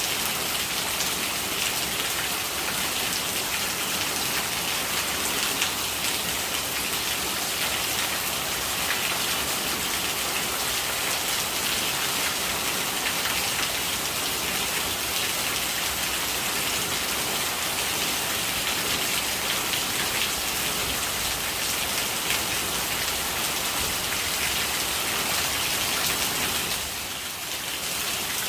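Steady rain falling, a dense patter of drops, with gurgling rainwater. It drops briefly quieter shortly before the end.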